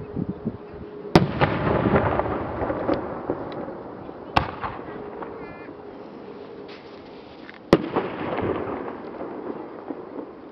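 Aerial firework shells bursting: three loud bangs about three seconds apart, each followed by several seconds of crackling.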